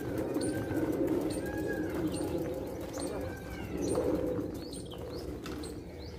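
Wild birds chirping and giving short arching whistles, again and again, over a steady low background noise.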